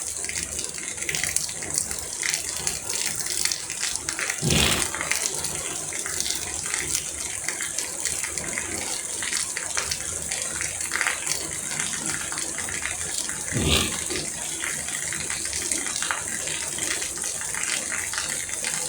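Rain falling steadily, an even hiss of water, with two brief louder swells about four and a half and thirteen and a half seconds in.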